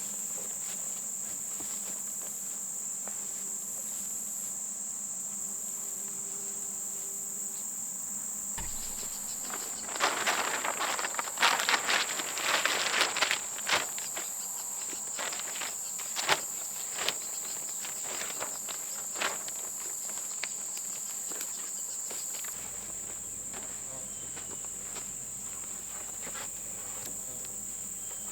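Steady high-pitched chorus of insects, likely crickets, with a burst of rustling and sharp clicks about a third of the way in, then a few scattered clicks.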